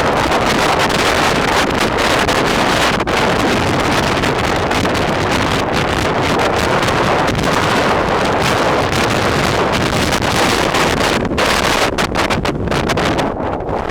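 Loud, steady wind buffeting the microphone, as when riding into a strong headwind. Any sound of the electric scooter itself is buried under it.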